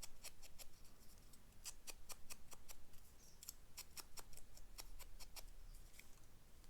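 Light, sharp clicks and snips of hand craft work on paper, irregular, a few a second.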